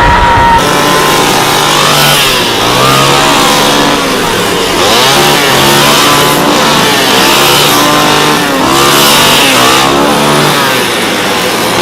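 Two-stroke chainsaw engine revved up and down again and again, its pitch rising and falling every second or two.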